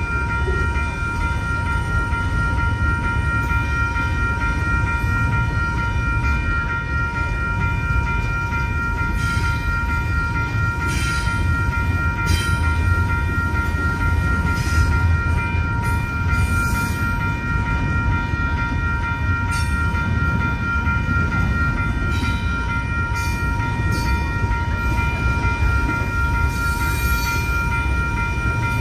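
A double-stack intermodal freight train rumbles steadily past a grade crossing while the crossing's new electronic bell rings continuously above it. Occasional short metallic clanks come from the passing cars.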